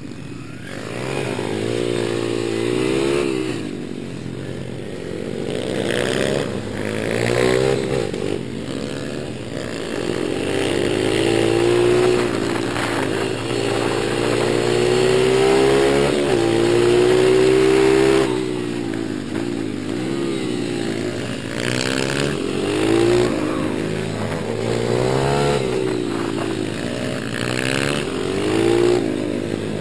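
Small four-stroke pit-bike engines (Apollo 140 YX / YCF 150 dirt bikes) running under load, revving up and down again and again as the bikes are ridden, with a long high-revving pull about halfway through.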